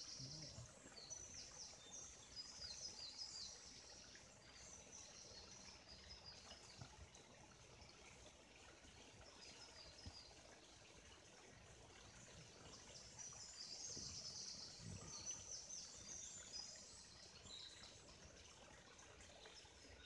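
Songbirds singing faintly in woodland: quick, high twittering phrases, one spell in the first few seconds and another from about twelve to eighteen seconds in, over a faint steady hiss.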